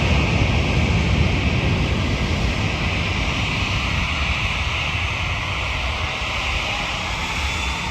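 Jet airliner engines: a steady rumble and hiss that slowly fades. Wind buffets the microphone.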